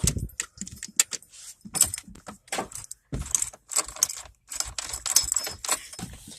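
Irregular bursts of clinking and rattling handling sounds, short clicks bunched into clusters with brief gaps between them.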